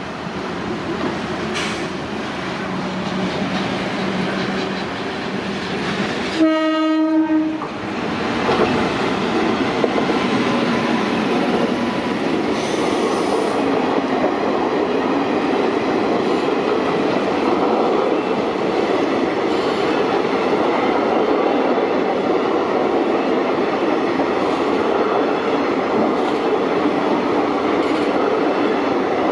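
WAP-7 electric locomotive and its express passenger train running through at speed: one horn blast of about a second as the locomotive nears, then the steady rush of the coaches going by close at hand.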